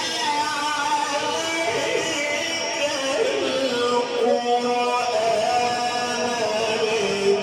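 Melodic Quran recitation: a reciter's voice chanting in long drawn-out notes that bend and glide between pitches, with no instruments.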